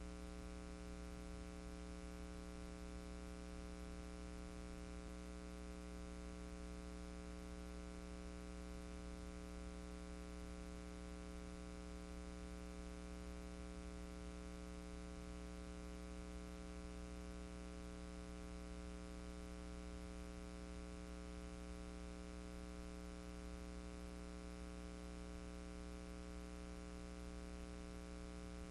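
Steady electrical hum with an even hiss and nothing else: the noise floor of a silent archive film transfer.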